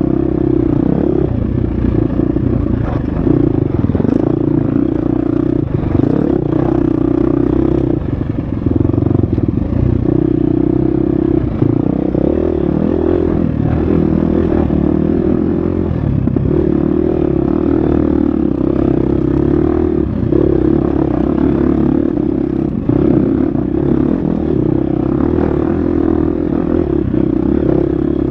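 Husqvarna FX 350 dirt bike's four-stroke single-cylinder engine running hard at a steady pitch, with short dips where the throttle is rolled off and picked up again. Knocks and clatter from the bike run underneath.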